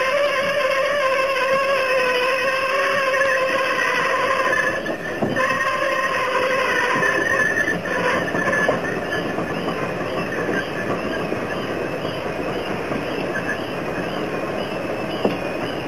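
Passenger coaches being pushed slowly through a mechanical brush train washer: a sustained, wavering squeal over a steady rushing noise, with a brief dip about five seconds in.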